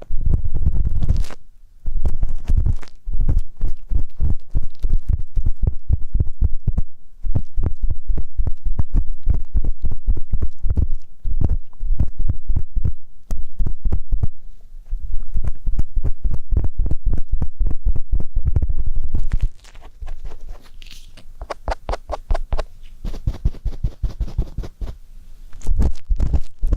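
ASMR ear-cleaning sounds: an ear pick scraping and rubbing close to the microphone in rapid, dense strokes that come out as muffled thumps. A little over two-thirds of the way in the strokes turn quieter and lighter.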